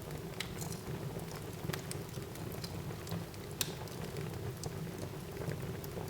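Wood fire burning in a fireplace: a steady low rumble of the flames with irregular sharp crackles and pops from the burning wood, one louder pop a little past the middle.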